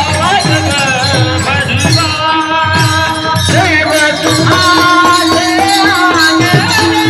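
Marathi devotional kirtan music: voices singing an abhang over a steady rhythm of mridang drum strokes, with a held tone underneath and jingling hand percussion.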